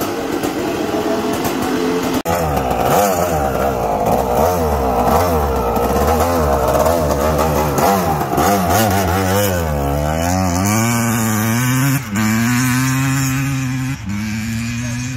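Yamaha YZ250 single-cylinder two-stroke engine in a YFZ450 quad, running and being revved, its pitch rising and falling again and again with a brief cut about two seconds in.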